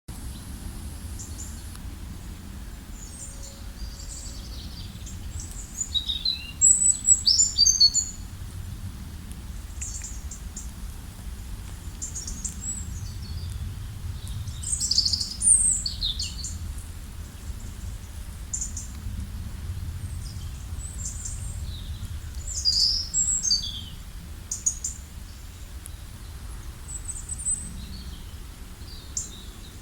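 Wild songbirds chirping and singing in short, high-pitched phrases throughout, loudest about seven and fifteen seconds in, over a steady low rumble.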